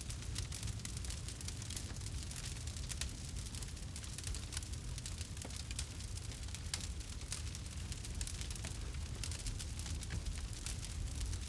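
Campfire crackling: many small, irregular pops and snaps over a steady low rumble.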